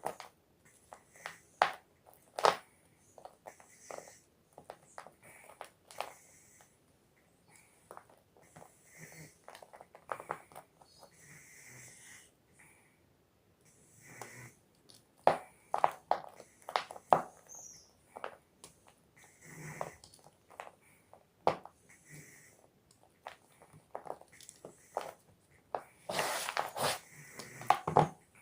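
Gym chalk block being crushed: a string of sharp crunches and snaps at irregular intervals, with a dense run of crunching near the end.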